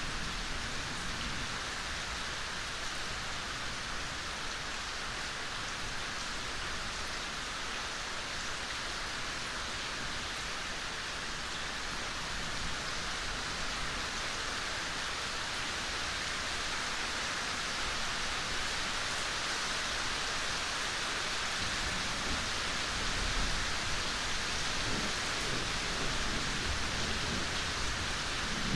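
Steady gentle rain falling in a forest, an even hiss. A low rumble of distant thunder starts to come in near the end.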